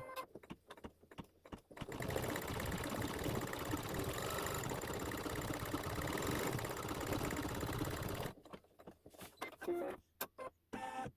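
Embroidery machine stitching a satin-stitch detail. It runs steadily at full speed for about six seconds, starting about two seconds in, with short separate stitch bursts before and after.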